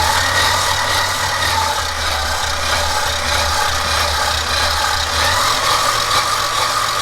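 Electric mixer running steadily on low speed, beating powdered sugar into cream cheese frosting. A low hum in its sound drops out about five seconds in.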